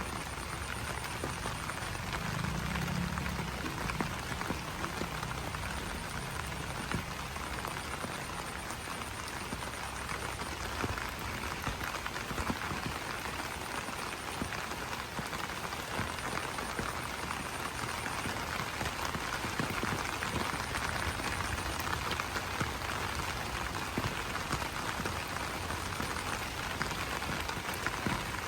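Steady rain pattering on broad banana leaves, a dense even spatter of drops, with a low-pitched call a few seconds in and faint high pulsing on and off.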